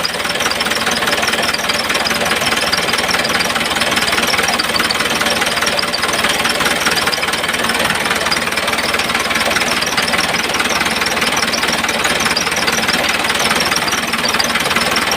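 Small electric motor of a homemade model tractor running steadily, a dense, even buzz with a fast rattle and no pauses.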